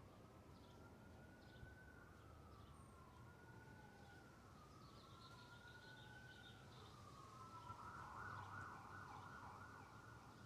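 Faint emergency vehicle siren, slowly wailing up and down in pitch, then switching to a rapid warbling yelp about three quarters of the way through.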